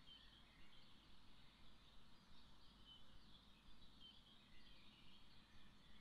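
Faint distant birdsong: scattered short, high chirps and warbles from songbirds over a low, steady background hush.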